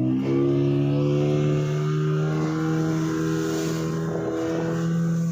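Speedboat engine running at high revs, its pitch holding steady and edging slightly upward.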